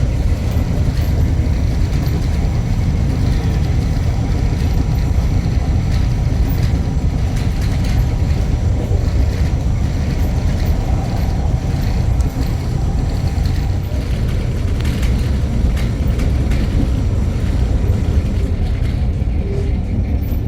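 Steady low rumble of an RTA light rail train running along the track, heard from inside the car, with faint scattered clicks and rattles.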